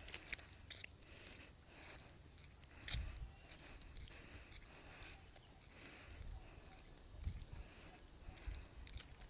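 Insects, crickets by their sound, chirring on one steady high note. Scattered faint clicks and a few low thumps run underneath.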